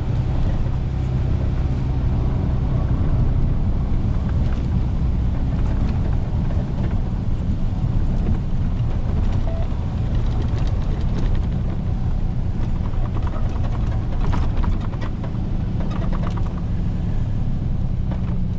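Tow truck engine running steadily: a low hum with an even hiss over it and a few faint clicks.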